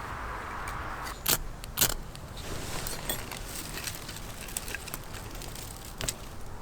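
Handling sounds with sharp clinks: two quick clinks half a second apart about a second in, small ticks after them, and another clink near the end.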